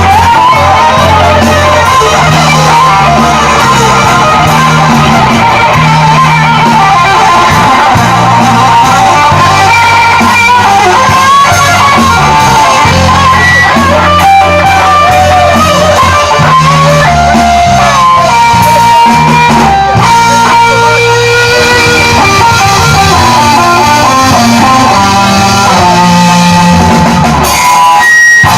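Live rock band playing an instrumental passage, electric guitar to the fore over a stepping bass line.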